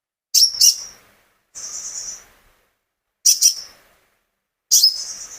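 A konin songbird singing in short, separate phrases. Sharp, loud doubled chirps alternate with a buzzier high trill, with brief pauses between phrases.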